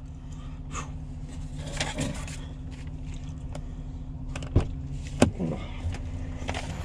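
Police SUV engine idling with a steady low hum, heard inside the cabin, with two sharp clicks about four and a half and five seconds in.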